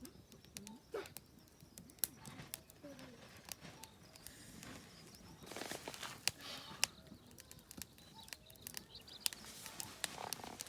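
Scattered sharp clicks and crackles with rustling, busiest a little past the middle, over faint short calls.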